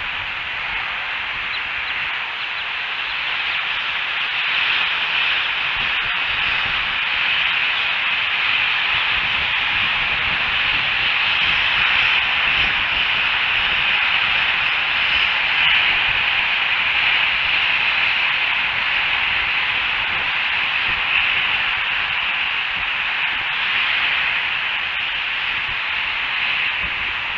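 Steady hiss on the nest camera's live audio feed, swelling slightly in the middle.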